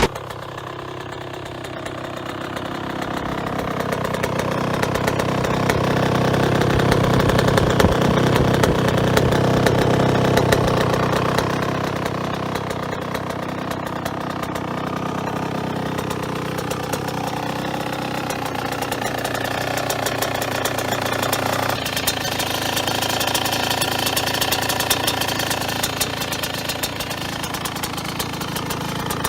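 Yamaha YZ125 single-cylinder two-stroke engine running through an aftermarket exhaust, mostly at idle, swelling louder for several seconds in the middle. The sound changes abruptly about three-quarters of the way through as it cuts to another bike.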